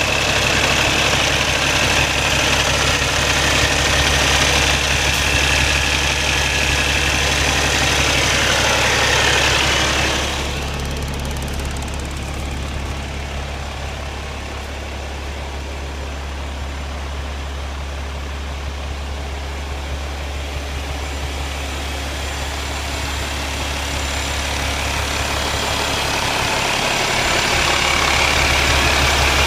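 Cummins ISX inline-six diesel engine of a Peterbilt 388 highway tractor idling steadily. Its sound drops in level about ten seconds in and builds back up toward the end.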